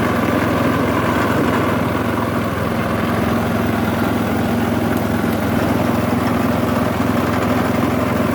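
Motor of a sugarcane juice pressing machine running with a steady hum.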